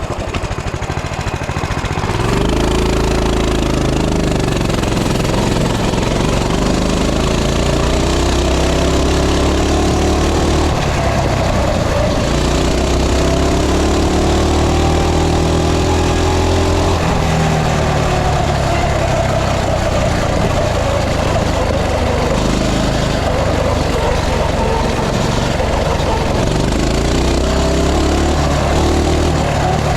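Coleman CT200U mini bike's small single-cylinder four-stroke engine running under load, its pitch rising and falling over and over as the throttle is worked. It drops back for a moment near the start, then revs up again about two seconds in.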